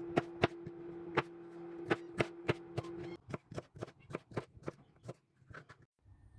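A knife chopping vegetables and fruit on a cutting board: irregular sharp chops, a couple of strokes a second, over a steady low hum that stops about halfway.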